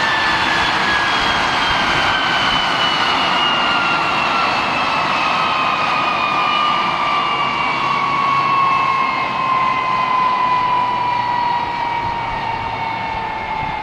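F-86 Sabre's jet engine spooling down: a turbine whine falling slowly and steadily in pitch over a loud rushing noise, which eases off a little near the end.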